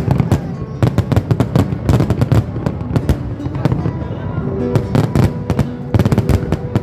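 Aerial fireworks shells bursting, with a rapid, dense run of bangs and crackles. Music with steady held notes plays underneath.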